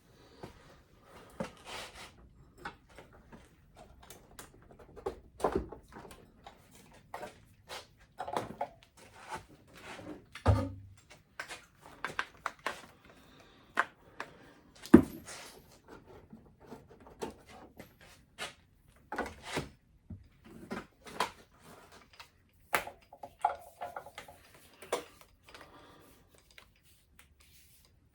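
Hand tools and metal parts being handled and set down: an irregular series of short clicks, clinks and knocks, with no power tool running.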